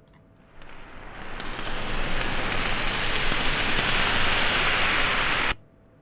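A recorded fire sound effect played back through filtering effects, heard as a dense, muffled hiss like rain or static. It fades in, builds over a second or so, holds steady, and cuts off abruptly near the end.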